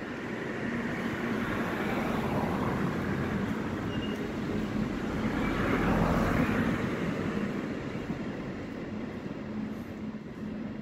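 A train running past on the tracks below, its rumble swelling to its loudest about six seconds in and then fading, over a steady low hum.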